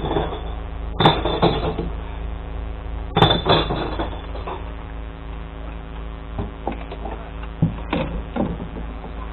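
Glass recycling truck's engine idling steadily, with several sharp clanks and knocks: one about a second in, two close together around three seconds in, and another near the end.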